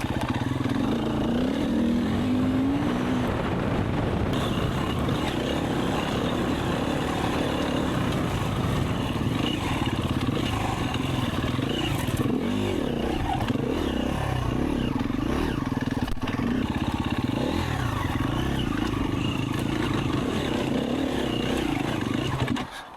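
Enduro dirt bike engine running while being ridden on single track, its revs rising and falling continually with throttle, with a few sharp knocks over the rough ground. The sound cuts off suddenly near the end.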